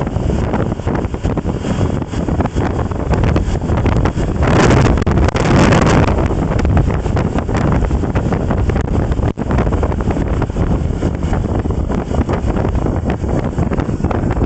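Heavy wind buffeting on the microphone of a moving camera, a steady rumbling rush that swells into a stronger gust about four to six seconds in.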